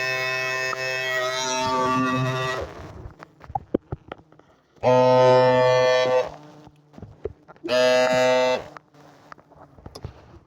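Powered insecticide duster buzzing at a steady pitch as it blows powder into a yellow jacket nest. It runs three times, first for about two and a half seconds, then twice more briefly, with small clicks and taps between the runs.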